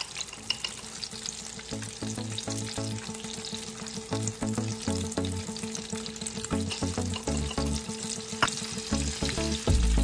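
Apple fritters frying in hot oil in a pan: a steady sizzle with many small pops and crackles. Near the end a slotted spoon goes into the oil with a low knock.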